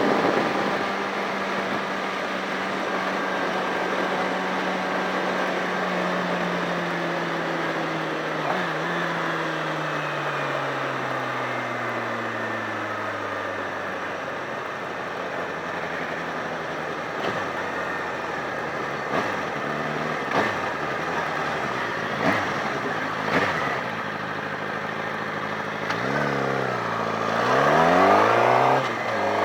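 Motorcycle engine running under way over wind and road noise. The engine note falls steadily as the bike slows, then the revs rise and drop several times in quick succession near the end as it accelerates away.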